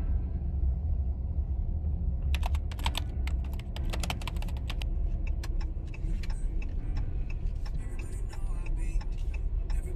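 A steady low rumble with many irregular, quick clicks and taps starting about two seconds in.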